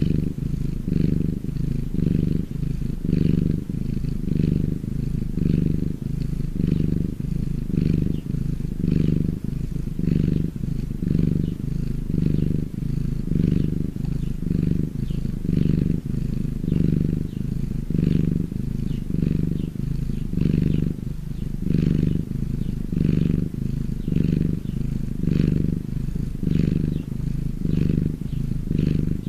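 Domestic cat purring, a low sound that swells and eases about once a second with each breath in and out.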